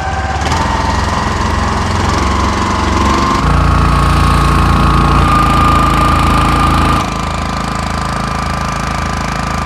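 Small motorboat engine running steadily. It revs up about a third of the way in and eases back down about two-thirds of the way through.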